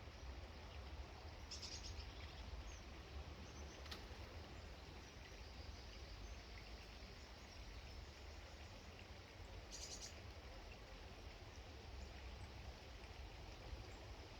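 Faint high chirps of small garden birds, twice, about two seconds in and again about ten seconds in, over a steady low background hum.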